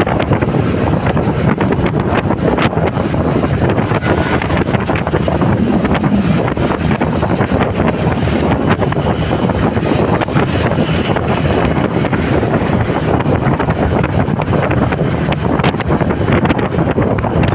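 Wind buffeting the microphone of a camera riding on a motorcycle, steady and loud, with motorcycle engine and road noise underneath.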